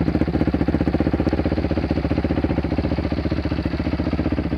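Dirt bike engine idling steadily, a fast even pulse without revving.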